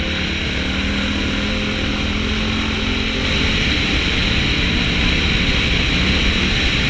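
Dirt bike engine running steadily while riding, with a dense rushing noise over it.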